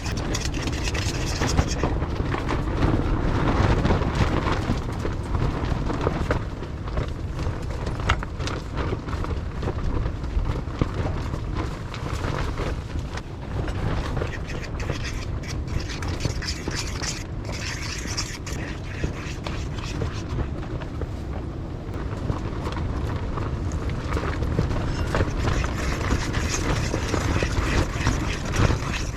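Strong wind buffeting the microphone: a continuous low rumble that swells and eases with the gusts, with scattered small clicks over it.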